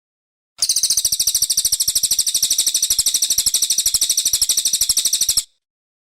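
Brown cililin song: a rapid, high-pitched trill of about ten notes a second, held evenly for about five seconds, starting and stopping abruptly.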